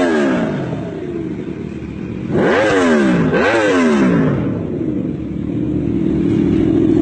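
Motorcycle engine revving: the pitch drops away, then two quick throttle blips about a second apart rise sharply and fall back, and the engine settles to a steady note near the end.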